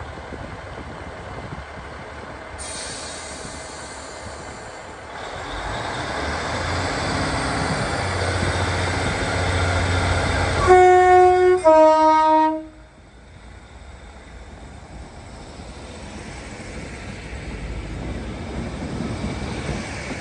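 A train's rumble builds as it approaches, then the train sounds a loud two-tone horn about ten seconds in: a higher note, then a lower one, each about a second long. After the horn the sound drops off sharply, and a quieter rumble rises again.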